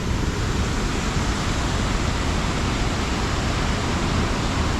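Steady rush of fast-flowing water from a rain-swollen creek, an even hiss and roar that does not change.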